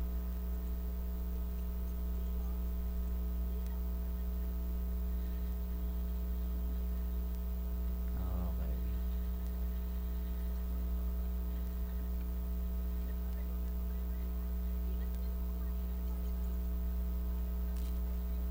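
Steady electrical mains hum with a ladder of overtones. A short downward-sliding sound comes about eight seconds in.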